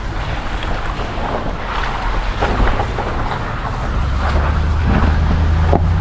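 Vehicle driving on a rough dirt road: steady tyre and road noise with small rattles and clicks, and wind on the microphone. A low engine drone grows louder about four seconds in.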